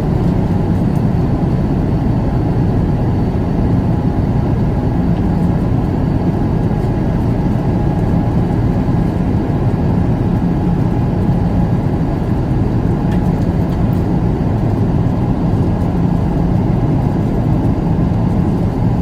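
Steady cabin noise of a jet airliner in flight: a deep, even rush of engine and airflow noise heard from inside the passenger cabin.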